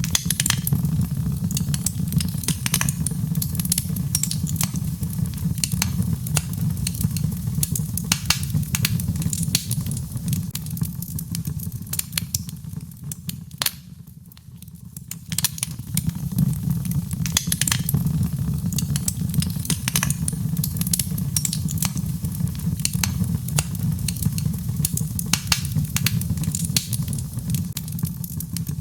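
Birchwood fire burning in a fireplace: many sharp crackles and snaps over a steady low rumble of the flames. The fire briefly quietens about halfway through.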